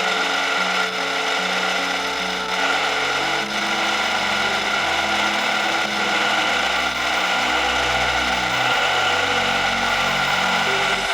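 Angle-grinder-driven homemade wood chipper running steadily, a constant high motor whine over a rough grinding noise, under music with a stepping bass line.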